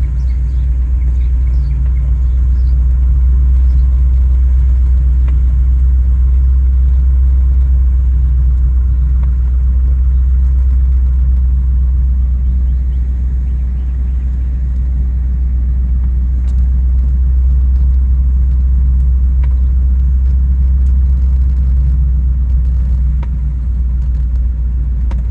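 Inside a 1958 Ford Thunderbird driving slowly: its 352 V8 engine and road noise make a steady low rumble that holds even throughout.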